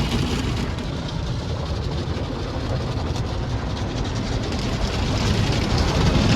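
Car wash tunnel side brushes spinning and rubbing along the car's body, heard from inside the car: a steady low rumble with hissing spray, growing a little louder near the end.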